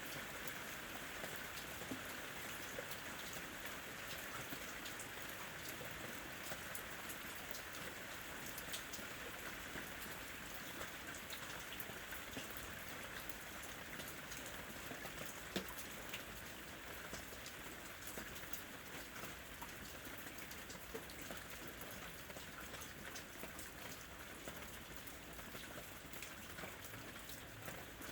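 Steady rain falling, an even hiss with scattered drop pattering, easing slightly toward the end.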